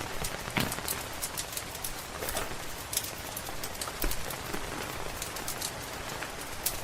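Steady rain hiss with a wood fire crackling: frequent sharp pops and snaps scattered over the even wash of rain.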